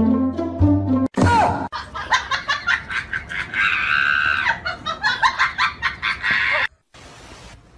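Background music for about a second, then laughter in quick repeated bursts with a held high-pitched cry in the middle, cut off suddenly near the end.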